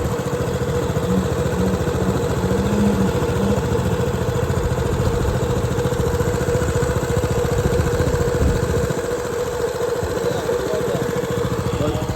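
A small 7 hp four-stroke outboard motor idling steadily, running in neutral before the boat is pushed off.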